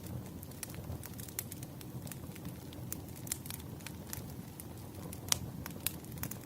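Wood fire crackling: irregular sharp pops and snaps of burning firewood over a low, steady rumble of the flames, with one louder pop about five seconds in.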